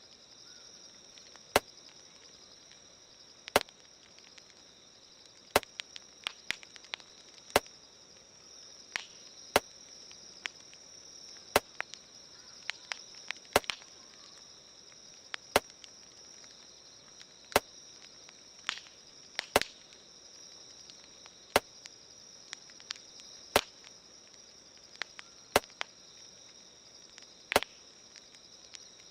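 Campfire crackling, with irregular sharp pops, over a steady high chirring of insects. A separate sharp click repeats evenly every two seconds.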